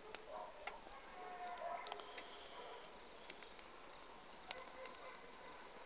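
Faint, scattered crackles and pops from a wood bonfire, over a faint steady high-pitched tone.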